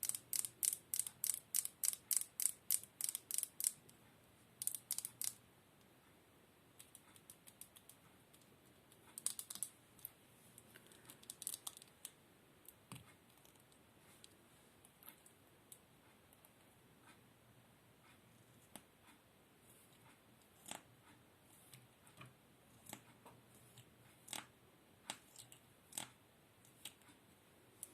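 ASMR trigger clicking: a fast, even run of sharp clicks, about five a second, for the first four seconds, then scattered light clicks and taps.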